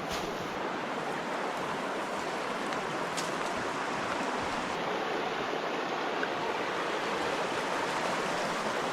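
River water flowing past, a steady rush of moving water.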